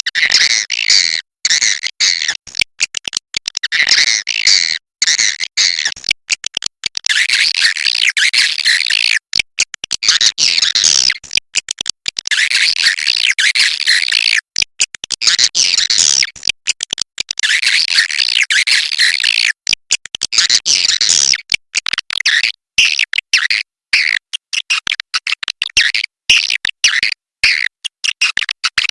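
Swiftlets calling: dense, high chattering twitters that come in runs broken by frequent short silences.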